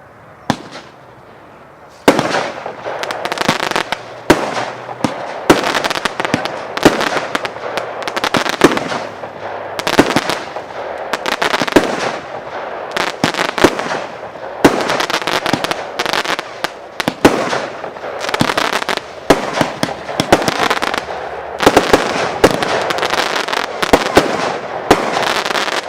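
Firework ('China by Night', Royal Fireworks) going off: one sharp bang about half a second in, then from about two seconds in a rapid, unbroken run of bangs and crackling.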